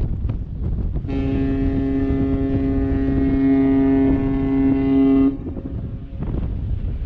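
A ship's horn sounds one long steady blast of about four seconds, starting about a second in and cutting off sharply. Low rumbling wind noise on the microphone runs underneath.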